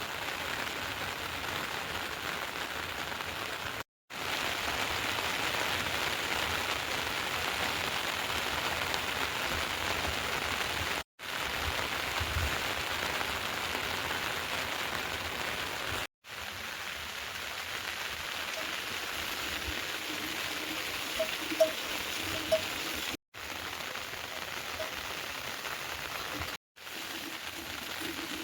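Heavy rain falling steadily, cut to silence for a moment five times. A few faint short chirps come in over it in the second half.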